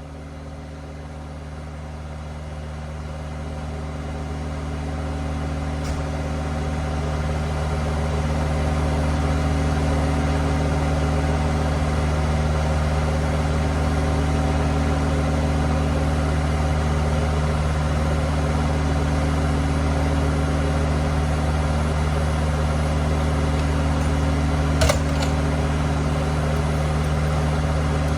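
Diesel engine of a delivery tractor-trailer idling steadily, growing louder over the first several seconds and then holding even, with a single sharp click near the end.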